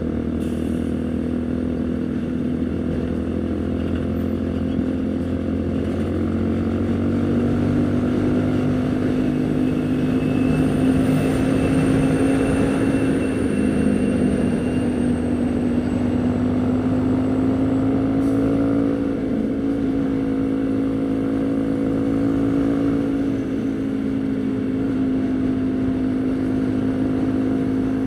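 Haojue NK150's single-cylinder 150 cc engine running while riding at a steady cruise. Its pitch climbs gradually over the first dozen seconds, then eases and rises slightly again before holding steady.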